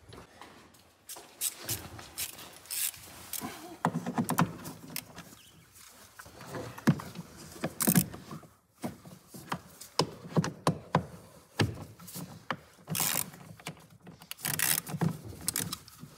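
Hand tools and plastic trim parts in a car's engine bay clicking, knocking and scraping in irregular bursts as fasteners are undone and panels worked loose.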